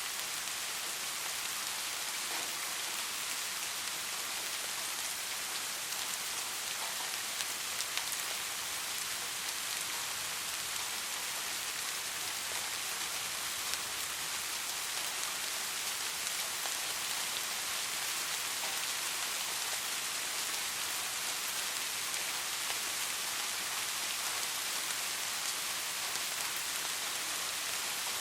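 Steady soft rain: an even hiss of rainfall with scattered individual drops ticking on a surface.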